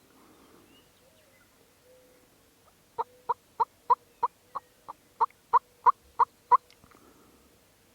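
Turkey yelping: a series of twelve evenly spaced yelps, about three a second, starting about three seconds in and lasting around three and a half seconds.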